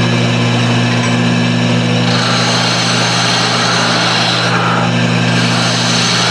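Wood lathe running with a steady electric motor hum while a turning tool cuts the spinning wood. The cutting hiss grows brighter from about two seconds in.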